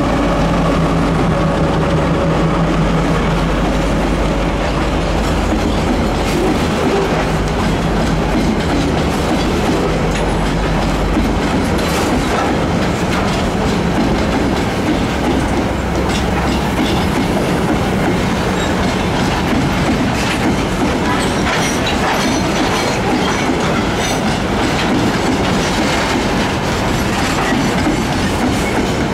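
A diesel freight locomotive runs past with a low engine drone that fades out about ten seconds in. After it, a long train of loaded coal wagons rolls by with steady wheel clatter.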